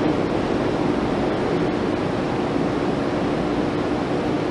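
Steady, even background hiss with a faint low hum underneath, unchanging throughout.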